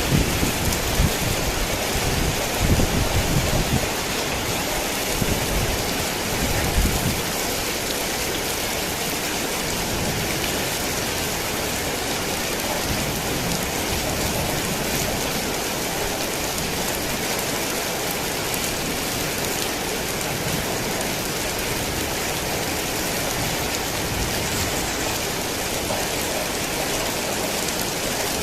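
Heavy rain falling steadily, an even hiss, with low rumbling in roughly the first seven seconds.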